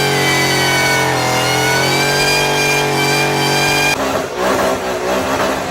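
Car engine revved and held at a steady high speed for about four seconds, then an abrupt cut to a rougher, pulsing engine sound.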